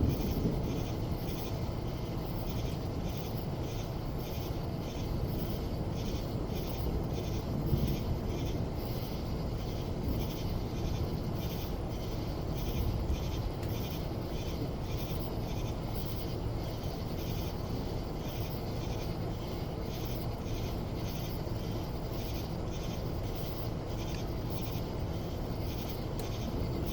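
Steady rain falling, with a low rumble underneath and a faint high-pitched pulsing about twice a second.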